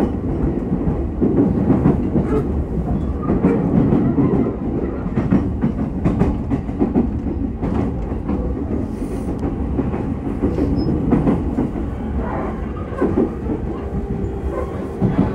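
Running sound of an E231-series 1000-subseries renewed commuter train heard from inside the car: a steady rumble of wheels on rail with repeated clicks from rail joints. A steady tone comes in near the end.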